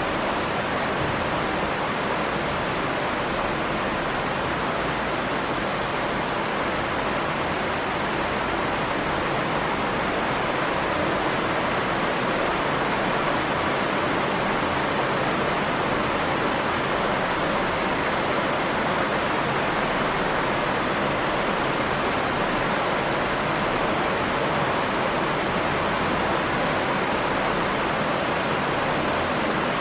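Steady rain falling, an even rushing hiss with no drops, thunder or other events standing out.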